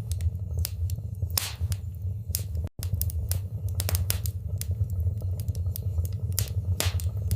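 Wood fire in a fireplace crackling, with irregular sharp pops and snaps over a steady low rumble of the flames. The sound cuts out for a split second near the middle.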